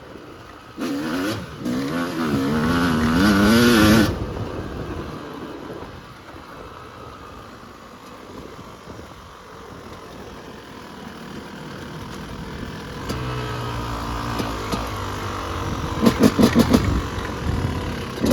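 Yamaha YZ250 two-stroke dirt bike engine revving hard with its pitch rising and falling for about three seconds, then dropping off the throttle. It runs quieter for a while, builds again, and ends with a quick run of sharp throttle blips.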